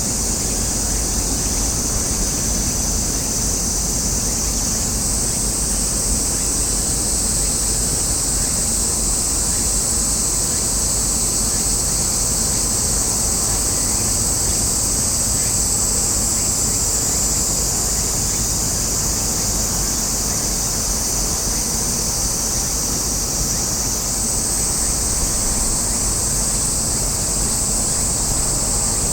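Steady high-pitched drone of a summer insect chorus, most likely cicadas, with its pitch shifting slightly twice, over a constant low rumble of wind and harbour water.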